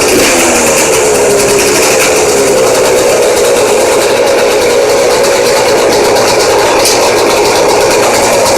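Dirt bike engine running loud and steady at a fast idle; its pitch drops a little in the first second, then holds.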